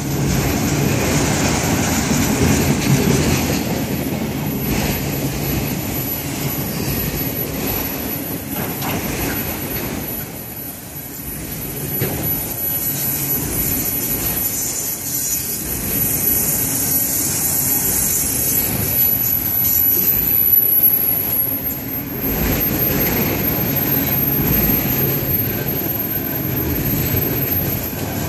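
Autorack freight cars rolling past close by: a steady rumble and rattle of steel wheels on the rails, with occasional clicks and a short dip in level about ten seconds in.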